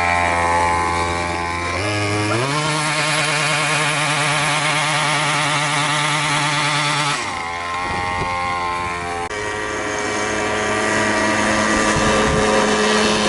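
A 50cc mini moto engine running. Its pitch rises about two seconds in and holds high with a wavering note, then drops back about seven seconds in and settles to a lower, steady pitch.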